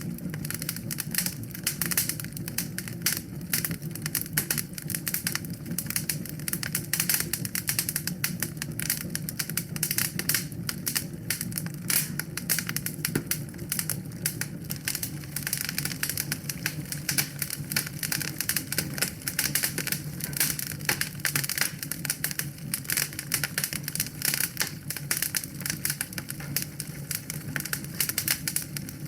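Wood fire burning in a fireplace, crackling: dense, irregular pops and snaps over a steady low rumble of the flames.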